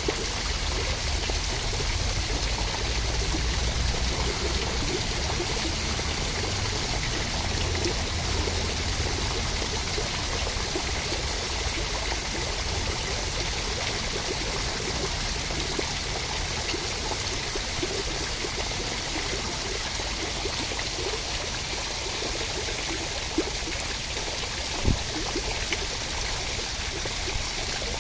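Steady, continuous rushing and trickling water, with a few brief louder drips or taps in the last few seconds.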